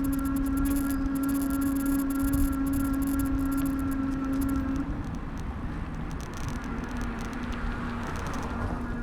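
Street traffic and road rumble heard from a handlebar-mounted camera on a moving bicycle. A steady hum stops about five seconds in and comes back at a lower pitch about a second and a half later.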